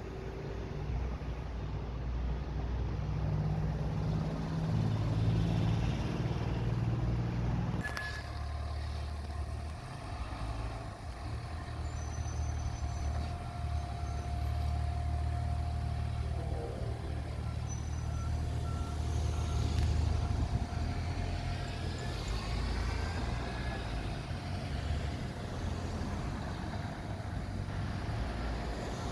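Diesel engine of a fire truck running heavily and steadily. About eight seconds in there is a sharp click, and after it a steady high tone holds on over the engine.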